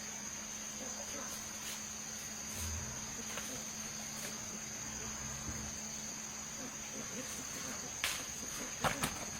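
A steady, high-pitched chorus of insects chirring. A few sharp knocks sound near the end.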